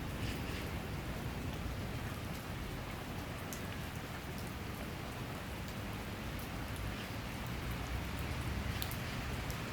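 Steady summer rain shower falling, with a continuous patter and scattered individual drops.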